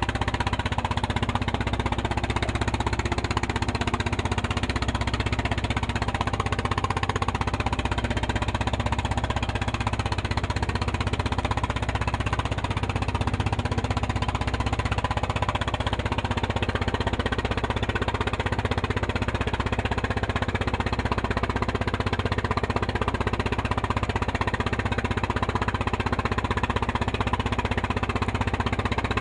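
Fishing boat's engine running steadily with a rapid, even knocking beat.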